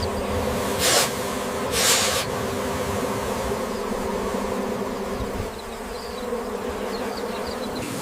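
A swarm of angry bees buzzing steadily, with two short hisses of an aerosol insect-repellent spray about one and two seconds in.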